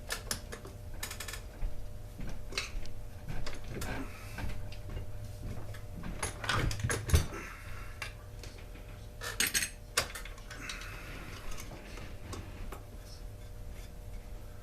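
Irregular clicks, clinks and knocks of small metal parts and hand tools being handled while a chainsaw is taken apart, with the loudest knock about seven seconds in, over a low steady hum.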